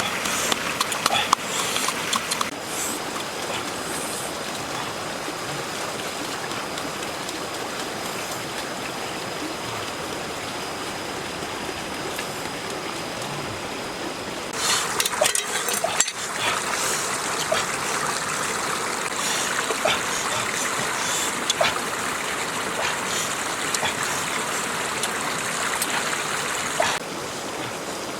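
Steady rush of running stream water, with splashing and small clicks in its louder stretches; the sound shifts abruptly a couple of times.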